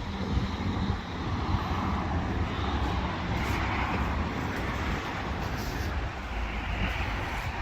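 Steady road traffic noise, with a vehicle's passing swell rising and fading over a few seconds above a continuous low rumble.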